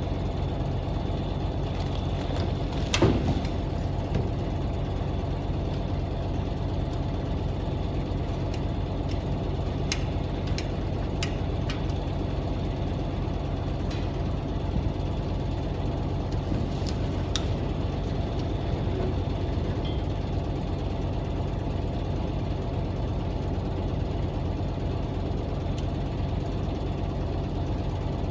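Truck engine running steadily at idle, with one sharp knock about three seconds in and a few light clicks later on.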